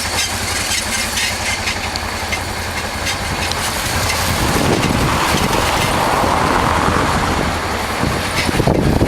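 Honda Transalp's 600 cc V-twin engine running with a steady low rumble, with a rushing noise that swells about halfway through.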